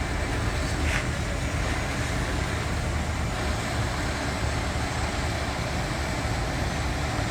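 Heavy tow truck's engine running steadily as it powers the hydraulic lift raising the rear of a stuck bus, with street traffic noise around it.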